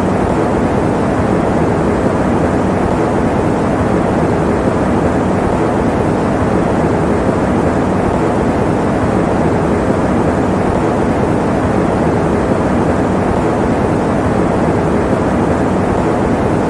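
Electric fan running: a steady, deep rushing noise that stays the same throughout, with little hiss at the top.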